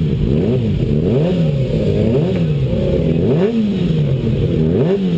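Engine of a vehicle lapping a road-racing circuit, heard on board. It revs up and drops back several times in quick succession, its pitch rising and falling about every second or so.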